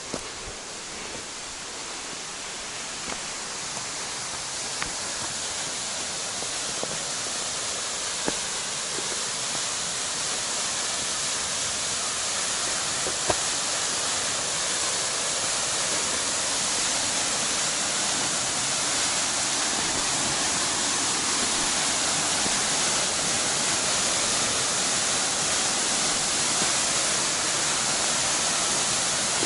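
Waterfall: a steady rushing hiss of falling water that grows gradually louder, with a few faint clicks.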